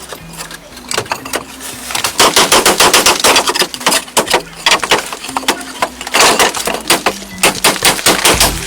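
Rapid runs of sharp knocks, about five a second, coming in two main bursts.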